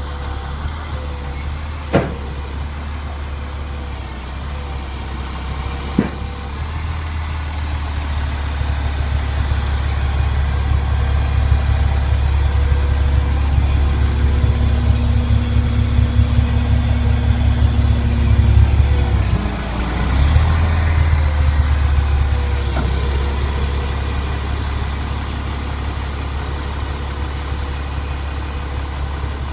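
International DT466E diesel engine running at idle, growing louder through the middle with a short dip about two-thirds of the way in. Two sharp clicks sound a few seconds apart near the start.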